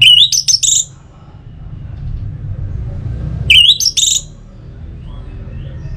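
Orange-headed thrush (anis merah) singing two short, loud whistled phrases about three and a half seconds apart, over a low steady rumble.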